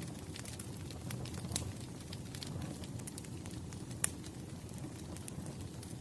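Wood fire burning in a fireplace: a steady low rumble of flames with scattered sharp crackles and pops, one louder pop about four seconds in.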